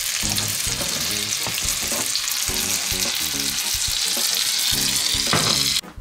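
Peeled mandarins frying in melted butter in a cast-iron skillet: a steady, loud sizzle as the fruit caramelizes, cutting off suddenly near the end.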